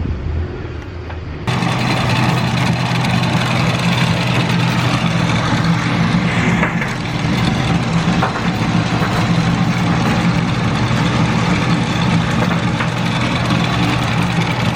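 A boat engine running steadily under way, with wind and water noise over it; it starts abruptly about a second and a half in.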